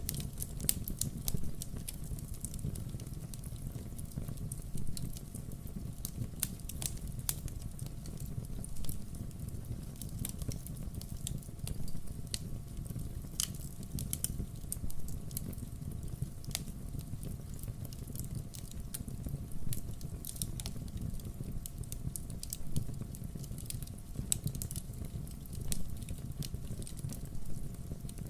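Wood fire crackling: irregular sharp pops and snaps from burning logs over a steady low rumble.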